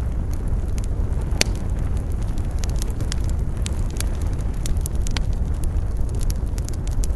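Wood campfire crackling, with frequent sharp pops at irregular intervals, the loudest about a second and a half in, over a steady low rumble of wind.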